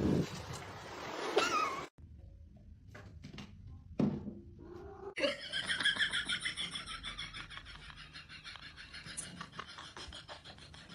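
Animal sounds from a few short clips cut together; the longest is a rapid, even run of high pulses lasting about six seconds.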